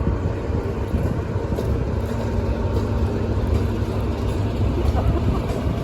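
Diesel-hauled train, Class 52 Western leading and Class 50 on the rear, running past with a steady low rumble and a faint steady hum over it.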